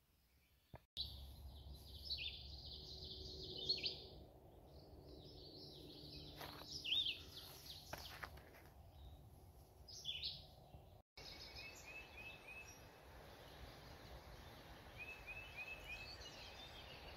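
Small birds singing and chirping over a steady low background noise. There are sudden cuts about a second in and again about eleven seconds in. After the second cut the birdsong is quieter, and a short run of four quick notes repeats twice.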